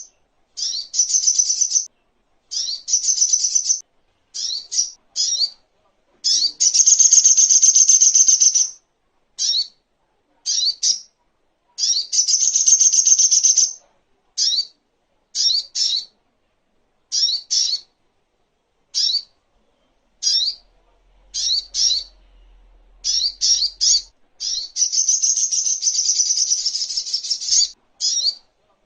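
Spiderhunter calling in a series of short, sharp, high notes, several times running into rapid chattering trills of a second or two, with clean silent gaps between bursts.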